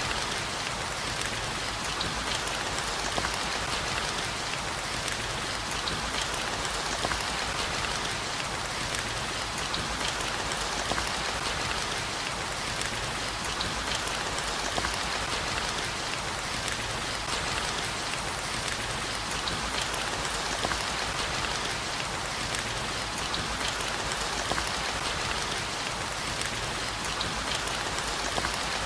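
Steady heavy rain: a dense, even hiss with countless small drop ticks.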